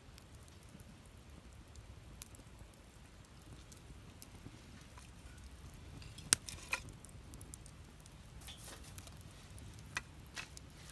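Wood fire burning in a fire pit, with scattered small crackles, two sharp pops about six seconds in and short bursts of hissing near the end.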